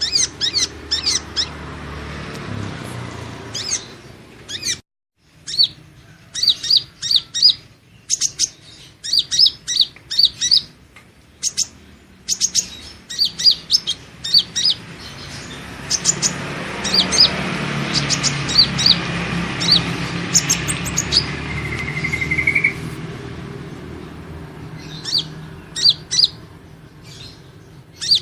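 Kolibri ninja sunbird call used as a lure: quick bursts of high, thin chirps, repeated again and again, over a low steady hum.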